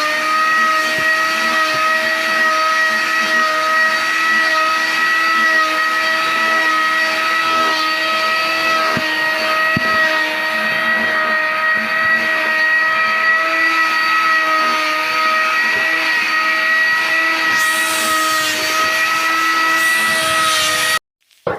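A small electric motor runs at a steady speed with a constant whine, then cuts off abruptly near the end.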